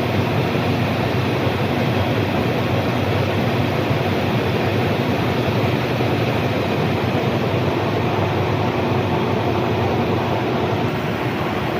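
SK 12 vertical turning lathe running, a loud steady machine hum with an even rushing noise over it and no change in speed.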